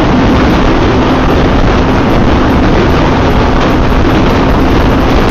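Yamaha FZ V3 motorcycle riding at highway speed: loud, steady wind rush on the microphone over the single-cylinder engine's steady running note.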